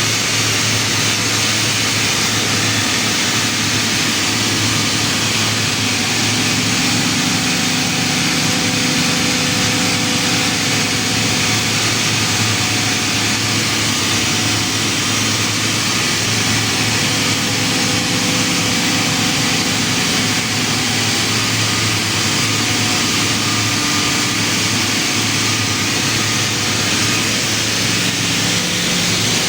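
Kaeser air compressor running steadily: a constant low hum with a loud hiss over it, unchanging throughout.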